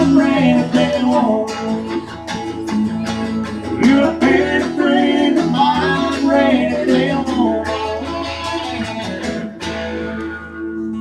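Guitars strumming and picking the closing instrumental of a country song. The strumming stops about nine and a half seconds in, and the final chord rings on.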